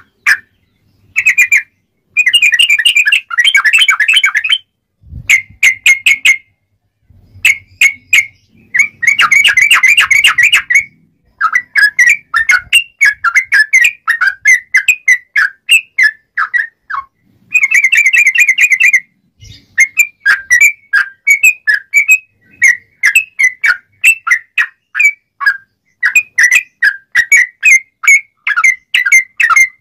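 Yellow-vented bulbul (trucukan) singing loud, rapid chattering phrases of short bubbly notes. The song comes in bouts separated by short pauses at first, then turns into near-continuous babbling.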